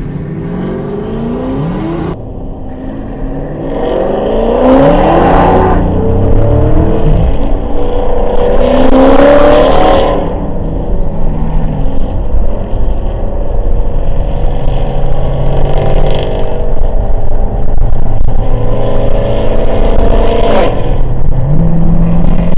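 Dodge Challenger Widebody's Hemi V8 accelerating hard, its note climbing in pitch several times and dropping back at each upshift, with a steadier cruising stretch in the middle.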